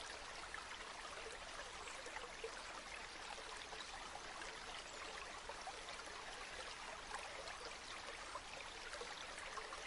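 River water flowing over stones, a steady, faint babble.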